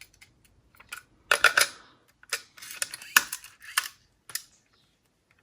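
Clusters of sharp plastic clicks and clatter from the walkman and cassette being handled, loudest in a quick run a little over a second in and again through the middle.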